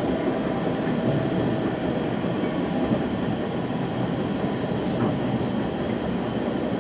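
Inside a West Coast Express commuter train coach: the steady rumble of the train running on the rails, with two brief high hisses about a second in and around four seconds in.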